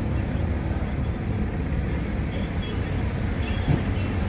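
Steady low rumble of a vehicle driving on a road, with a brief knock near the end.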